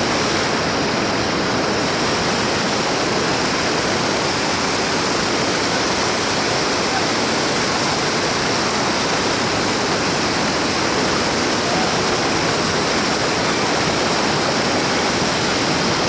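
Steady, unbroken rush of river whitewater.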